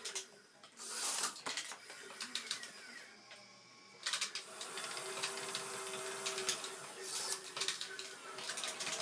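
RC model excavator's small electric motors and gears whining, with rattling clicks of sunflower seeds being scooped and poured. There is a burst of rattling about a second in, and from about four seconds in a steady motor whine with dense clicking.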